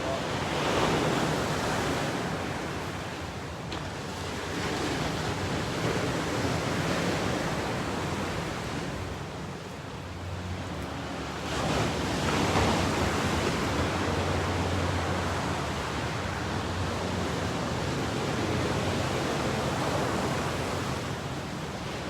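Ocean surf: waves breaking and washing up in long swells of noise that rise and fall, with a big surge just after the start and another about twelve seconds in.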